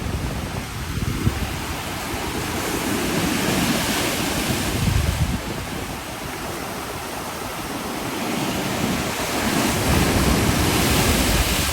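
Heavy ocean waves crashing onto lava rocks, the surf noise swelling twice as successive breakers hit, with wind buffeting the microphone.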